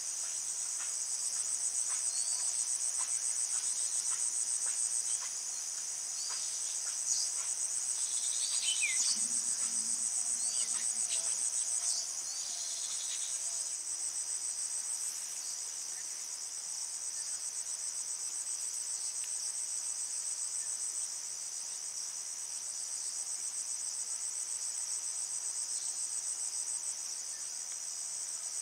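A steady, high-pitched insect chorus trilling without a break. A few short chirps come through it during the first half.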